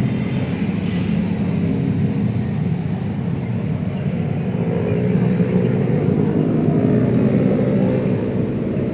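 Steady low rumble of city road traffic passing close by, with a brief hiss about a second in.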